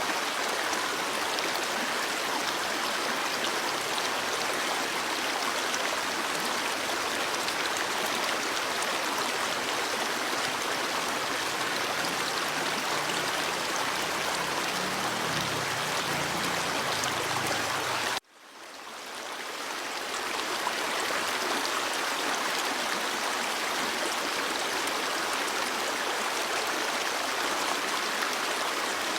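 Stream water flowing in a steady rush. About two-thirds of the way through it cuts out suddenly, then fades back in over a couple of seconds.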